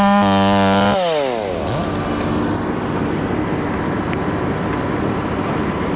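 Chainsaw running at full throttle, then released about a second in so the revs fall away, with one short blip of the throttle. A steady engine rumble carries on underneath.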